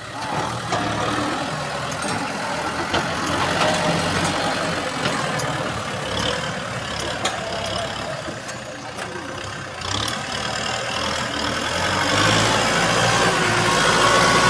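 4WD tractor engine running steadily, with occasional clicks and knocks. The engine gets louder about twelve seconds in.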